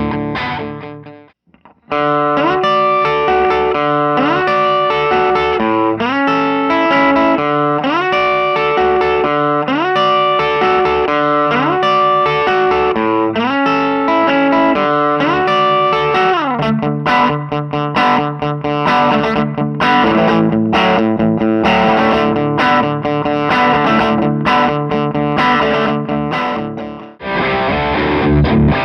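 Electric guitar through a valve amp set at the edge of breakup, slightly overdriven. It plays a repeated riff of notes bent up in pitch, then a busier passage. The playing stops briefly just after the start and again near the end.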